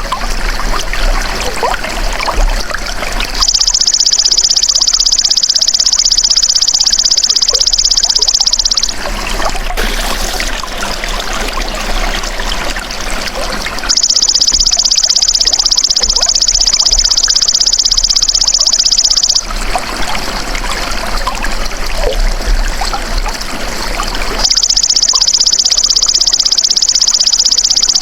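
Belalang emas insect singing high, rapidly pulsing buzzing trills of about five seconds each, three times, over a steady background of trickling water.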